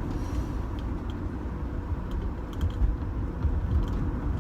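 Cabin noise of a 2005 Rover 25 GSi on the move: a steady low rumble of engine and road, with a few faint clicks.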